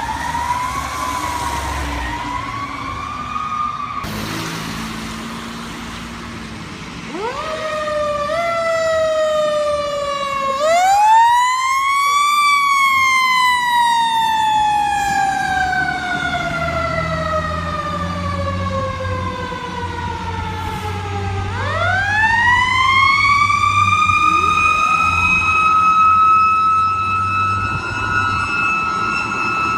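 Fire truck siren wailing. After a fainter wavering tone it climbs in steep sweeps to a peak, glides slowly down for several seconds, then rises sharply again about two-thirds of the way through and holds high. A heavy truck engine rumbles underneath in the second half.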